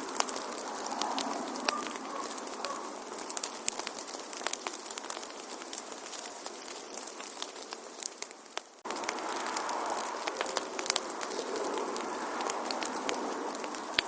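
Wood fire crackling: a steady soft hiss with many small sharp pops and snaps. The sound drops away for a moment a little past eight seconds in, then carries on as before.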